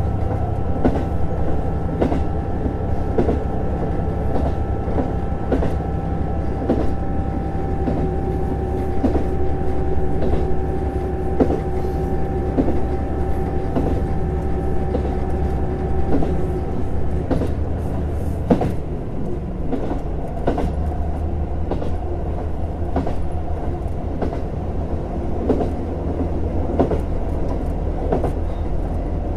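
JR Hokkaido KiHa 150 diesel railcar running, with a continuous low rumble and regular clicks of the wheels over rail joints about once a second. A steady pitched hum from the drive fades out about two-thirds of the way through, and the rumble carries on lower.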